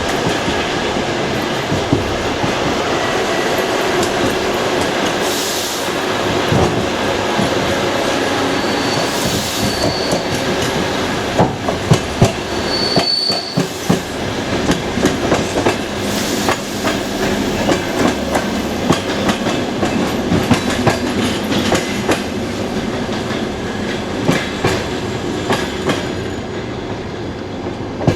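Passenger train heard from aboard, its wheels clattering over rail joints and points in a steady run of irregular knocks. Twice, around a third and a half of the way through, there is a short high squeal.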